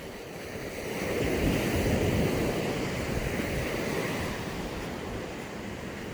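Sea waves breaking on the beach: a wash of surf that swells about a second in and slowly fades.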